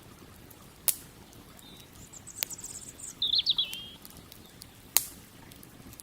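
Campfire crackling, with three sharp pops (one about a second in, one midway and one near the end) over the steady rush of a river. A small bird gives a quick run of chirpy, warbling notes around the middle.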